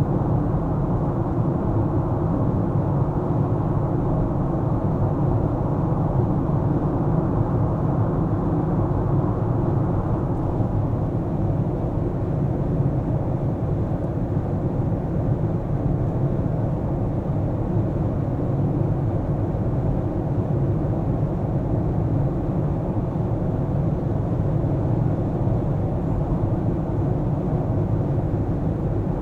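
A car driving: a steady low rumble of road and engine noise, its higher part easing off slightly after about ten seconds.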